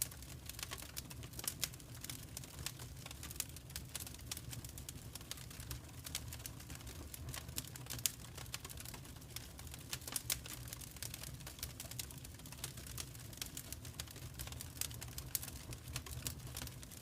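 Wood fire crackling in a fireplace: a steady stream of irregular small pops and snaps over a low, even rumble of the burning.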